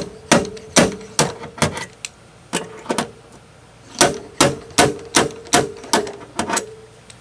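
Quick runs of sharp metal-on-metal strikes on a steel van tailgate during dent repair, about fifteen in all, each leaving a brief ring in the sheet metal.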